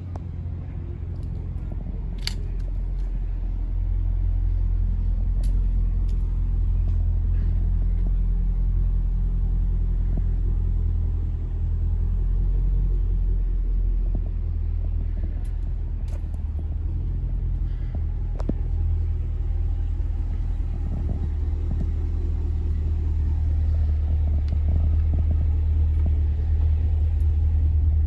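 Muscle car engine running at idle with a deep, steady low rumble that grows louder over the first few seconds.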